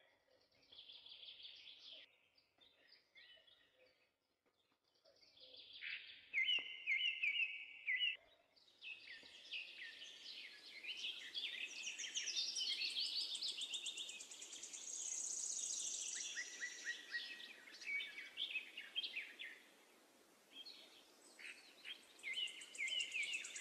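Birds chirping and singing, several at once: scattered calls for the first eight seconds or so, then a dense overlapping chorus of trills and chirps.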